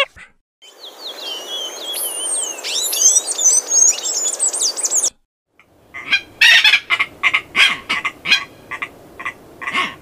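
Small birds chirping and whistling rapidly over a background hiss for about four seconds. After a brief pause, a tropicbird gives a run of harsh, rapidly repeated calls, several a second.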